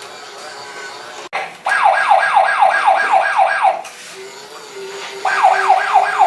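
Electronic siren sound effect from a Tonka Mighty Motorized toy helicopter's sound button, played through its small speaker: quick falling sweeps about four a second, in two bursts, the first starting about two seconds in and the second near the end. A fainter steady hum joins after about four seconds.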